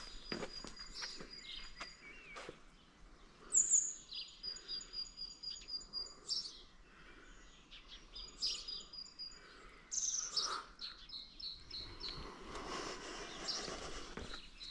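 Small songbirds calling: runs of quick, high, repeated notes several times over, the loudest a sharp falling note about three and a half seconds in, with footsteps ticking underneath.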